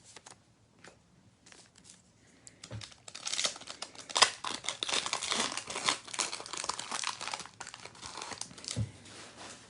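A foil trading-card pack wrapper being torn open and crinkled by hand. A few light clicks and rustles come first, then about six seconds of dense crinkling.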